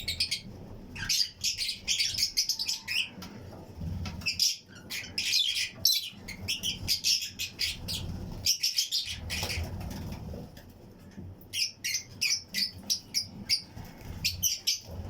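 A colony of Fischer's and lutino lovebirds chirping, many rapid high-pitched chirps overlapping in busy bursts, with brief lulls about four seconds in and again around ten seconds. Low rumbling noises come in between the chirping.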